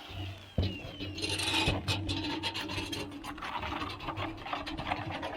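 Sheet metal scraping and rasping, with many irregular clicks and knocks.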